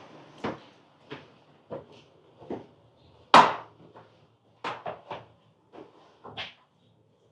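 Footsteps on a hard floor in a small hallway, about one every half-second to second, with one louder knock about three and a half seconds in.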